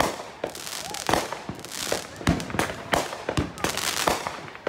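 Consumer aerial firework cake firing a rapid string of shots, about two to three bangs a second, as its stars burst overhead.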